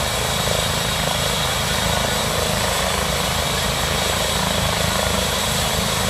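Police helicopter running at the start of its takeoff: a steady high turbine whine over the fast beat of the rotor, loud and even throughout.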